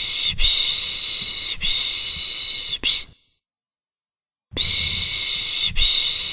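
A person's rhythmic 'pış pış' shushing to soothe a baby: long hissing 'shh' strokes of about a second each, run together, ending in a short one, then a pause of about a second and a half before the strokes start again.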